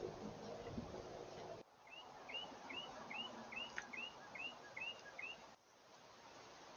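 A bird calling a run of eight short, curved notes, a little over two a second, for about three and a half seconds.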